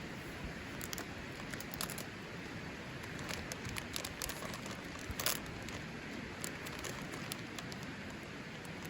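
Wood campfire crackling, with scattered sharp pops over a steady hiss; the loudest pop comes about five seconds in.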